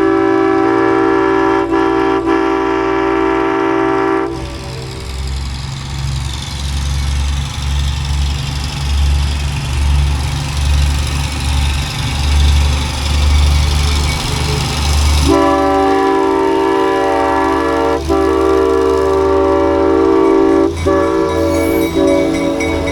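Arcade and Attica Railroad excursion train going by: the locomotive's horn sounds a long multi-note chord for about four seconds, then the locomotive's engine rumbles past with a pulsing low throb. About fifteen seconds in, the horn sounds again and holds.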